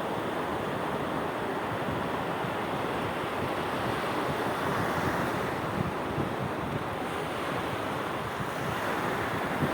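Sea waves washing onto the shore in a steady surf, swelling a little louder about halfway, with wind rumbling on the microphone.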